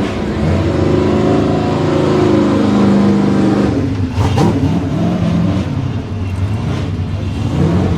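Drift car engine revving hard: the note is held high and steady for a few seconds, then swings quickly up and down in pitch several times about four seconds in, with a sharp crack among the swings.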